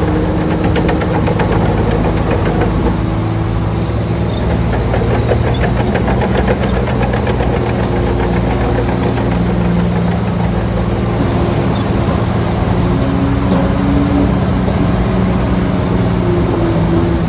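Heavy diesel engine of earthmoving machinery running steadily, its pitch shifting slightly in places.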